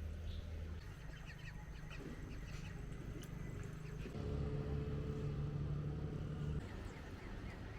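A motor engine hums steadily, growing louder for a couple of seconds past the middle and then dropping back. Birds chirp over it.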